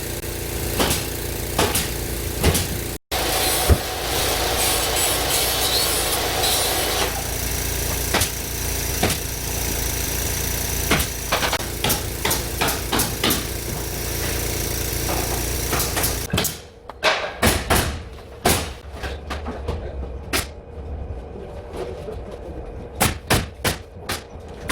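Interior carpentry job-site noise: a steady machine drone with occasional sharp knocks. About two-thirds of the way through, the drone drops away and a series of separate sharp impacts follows, typical of fastening work on ceiling framing.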